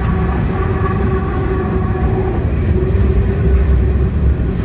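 CSX freight cars rolling past close by: a loud, continuous low rumble of wheels on rail with a steady high-pitched wheel squeal over it.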